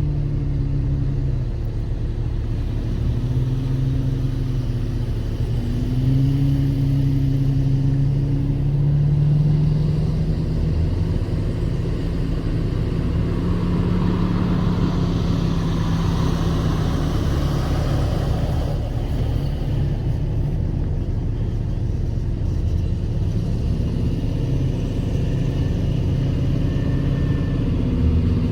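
Off-road vehicle's engine running at low revs, its note drifting slowly up and down as it crawls along a trail, with a stretch of rushing noise midway.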